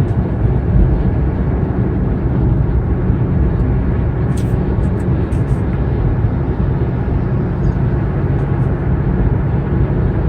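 Steady in-cabin drone of a Kia Morning (TA) small hatchback cruising at about 95–100 km/h: a deep, even mix of engine and tyre-on-road noise. A few faint ticks come about halfway through.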